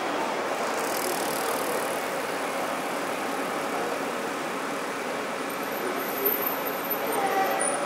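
Steady hum and hiss of electric commuter trains standing at a railway platform, with a bicycle ridden past.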